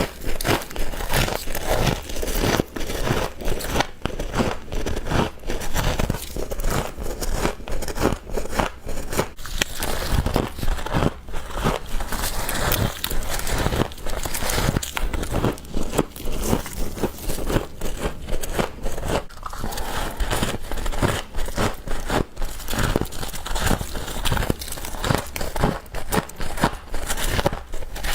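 Close-up chewing of frost: a dense, continuous run of crisp crunching and crackling bites.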